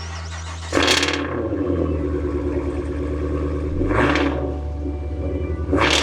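Supercharged 6.2-litre V8 of a 2023 Cadillac Escalade V running with a low steady drone and revved sharply three times: about a second in (the loudest), around four seconds, and near the end.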